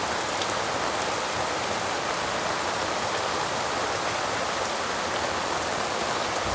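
Steady rain falling, an even dense patter with a few faint ticks scattered through it.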